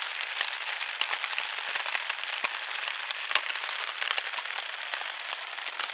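Heavy rain falling on a tent: a dense, steady hiss of drops with many sharper individual hits scattered throughout.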